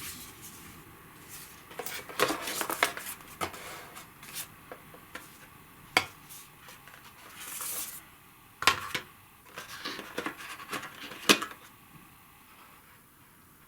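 Board game components and packaging being handled: scattered clicks and clacks of pieces set down or knocked together, the sharpest about 6, 9 and 11 seconds in, with short bursts of rustling between them.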